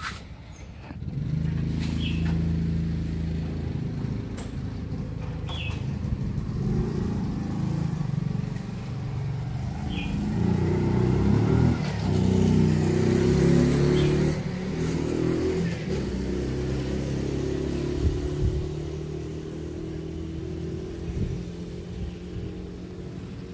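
An engine running steadily, louder in the middle stretch, with a few short high chirps every few seconds over it.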